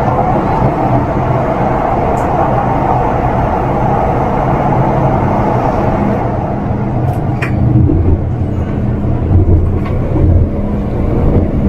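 MTR Disneyland Resort Line M-Train running at speed, heard from inside the car. A dense rumble thins out about six seconds in as the train leaves a tunnel for open track. What remains is a lower running drone with a steady hum and a few sharp clicks.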